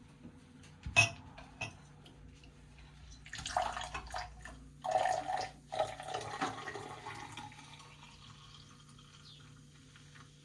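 Homemade kvass being poured into a glass: a light clink about a second in, then liquid pouring in two goes with a short break, dying away after about eight seconds.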